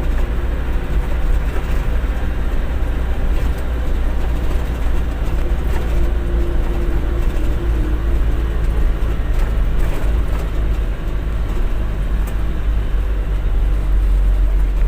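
Steady low rumble of a truck's engine and road noise.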